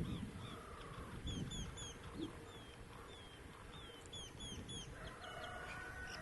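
Birds calling: quick high chirps repeated in groups of three, twice, over a low rumble of wind on the microphone, with a longer held call near the end.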